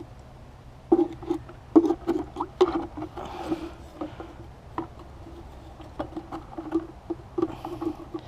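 Burnt metal pieces of a melted-through furnace shell (coffee tin and cut fire extinguisher) being handled and shifted, with irregular scrapes and clinks that each ring briefly.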